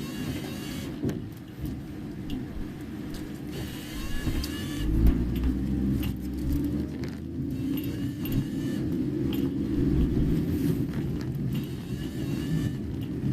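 Car running on the road, heard inside the cabin: a steady low rumble, swelling louder for a second or two about five seconds in.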